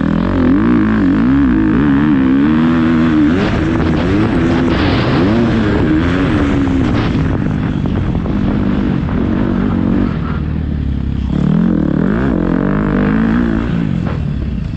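Motocross dirt bike engine revving up and down as the throttle is worked over and over, with a steadier stretch in the middle before the rises and falls start again.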